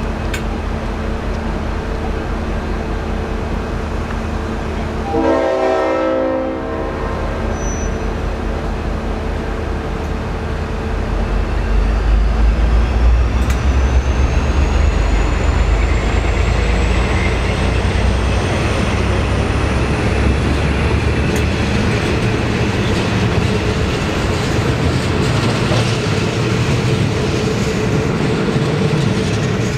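V/Line N class diesel-electric locomotive: its engine hums steadily, it gives one short horn blast about five seconds in, then the engine gets louder and a whine rises steadily as the train gets moving.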